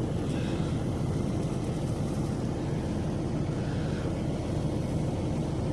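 Steady low rumble of an idling semi truck engine.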